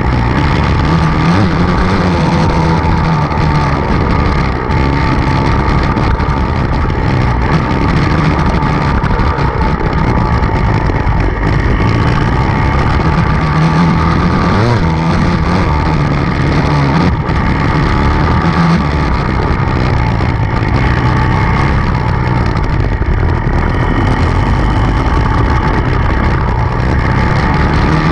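Dirt bike engine running hard as it is ridden, its pitch rising and falling with the throttle.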